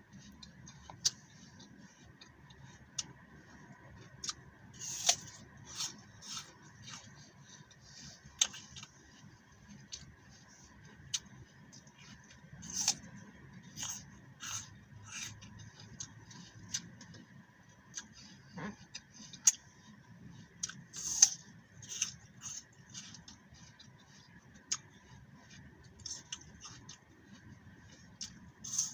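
Close-up chewing of crisp raw green apple: irregular crunches and sharp clicks coming in clusters, with quieter gaps between bites.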